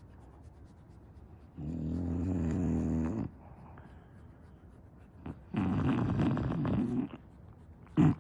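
English bulldog snoring in its sleep: two long, rattling snores a few seconds apart, each about a second and a half. A brief, louder sound comes right at the end.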